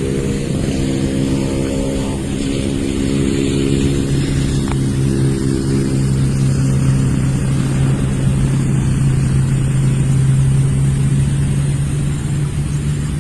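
A vehicle engine running at a steady speed as a low hum. Its pitch shifts slightly about two seconds in, then holds steady.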